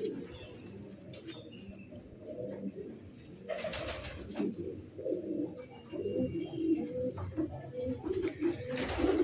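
Domestic pigeons cooing, repeated low calls that grow more frequent in the second half. Two brief rustles, about three and a half seconds in and near the end.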